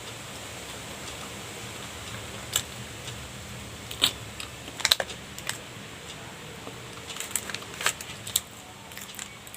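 Eating pastry: scattered sharp clicks and taps over a steady background, starting about two and a half seconds in and getting busier near the end.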